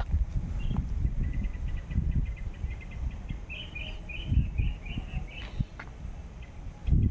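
A small bird chirping in a rapid run of short high notes over an uneven low rumble on the microphone.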